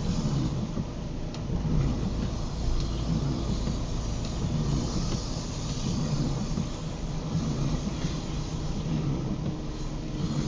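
Inside a moving car's cabin: a steady low rumble of engine and road with a hiss of tyres on the wet road.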